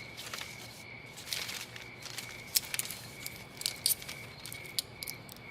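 Faint cricket chirping, a thin high trill that comes and goes, with scattered soft clicks and crackles over a low background hum.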